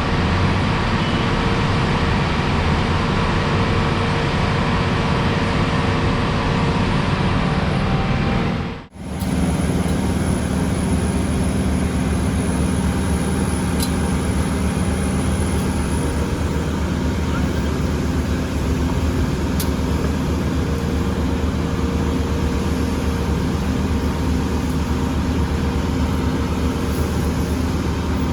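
Heavy diesel engines of asphalt paving equipment running steadily, a low drone with a constant hum. The sound drops out for a moment about nine seconds in, then the same drone carries on.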